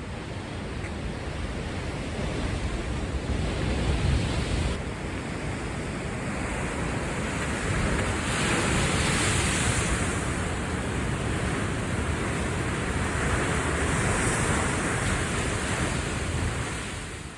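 Rough surf breaking on the shore, with wind buffeting the microphone, the sea stirred up by an approaching typhoon. The noise swells louder twice, about halfway through and again near the end.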